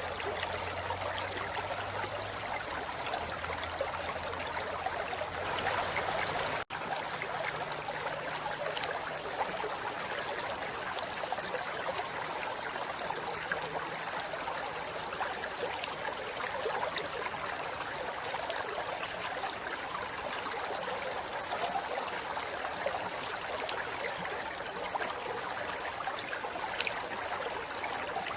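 Forest river flowing over rocks: a steady rush of water that cuts out for an instant about seven seconds in.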